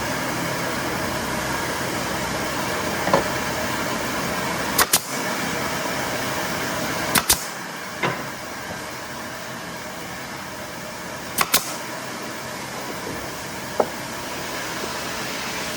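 Steady mechanical running noise, broken by sharp clicks that mostly come in close pairs, about four times.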